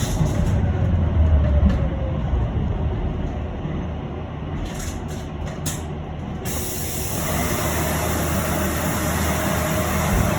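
Inside an electric city bus: a low running rumble, a few short clicks about five seconds in, then a sudden steady hiss sets in and continues with the rumble.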